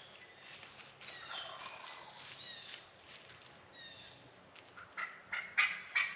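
Wild turkey gobbling: a short, rapid rattling run of notes near the end, over small songbirds chirping in the background.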